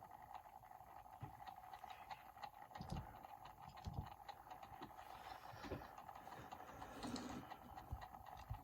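Faint scattered clicks and a few soft knocks from a die-cast toy car being handled, over a steady faint hum.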